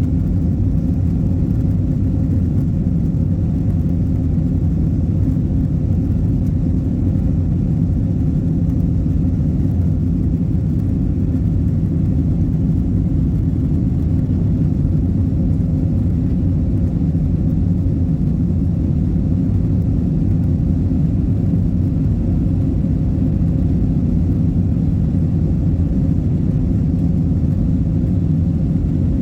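Cabin noise of an Asiana Airbus airliner: a steady low rumble of the jet engines, heard from inside the cabin.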